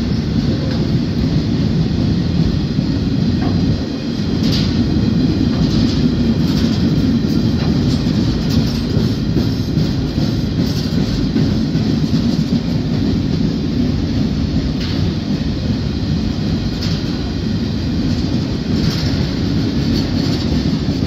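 Empty steel-coil wagons of a freight train rolling past: a steady rumble of wheels on rail with clickety-clack and occasional sharp clicks.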